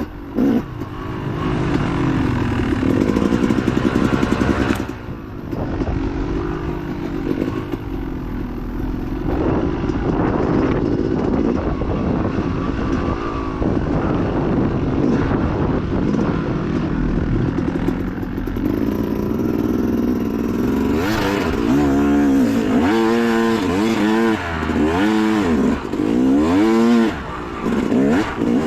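Dirt bike engine being ridden hard off-road, its pitch rising and falling with the throttle. In the second half it revs up and drops back several times in quick succession, with rattling from the bike over rough ground.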